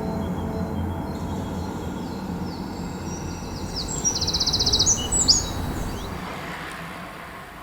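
Low, steady outdoor rumble with a songbird singing high chirps and a fast trill in the middle, the whole fading out near the end.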